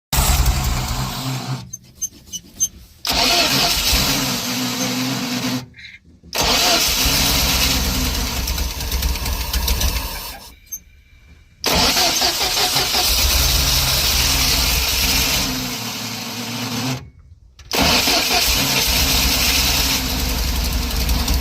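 UAZ Bukhanka van engine turning over and running in several separate bursts of a few seconds each, broken by sudden short silences.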